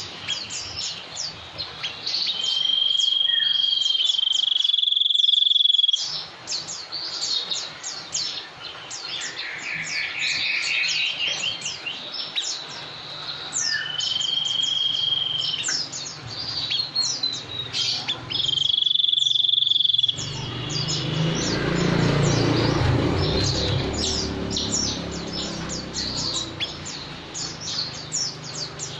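Dense chirping of many birds, with a long steady whistle held for about a second and a half, four times. A low rumble joins about two thirds of the way through.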